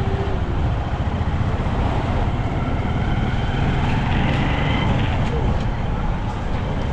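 Steady rumble of a moving vehicle, with engine and road noise.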